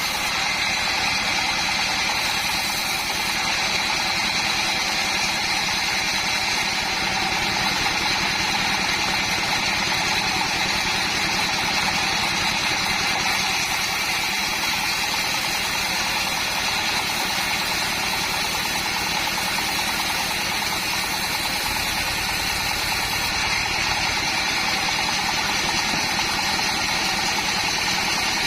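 Sawmill board saw running steadily: a constant machine drone with a steady high whine and no change in load.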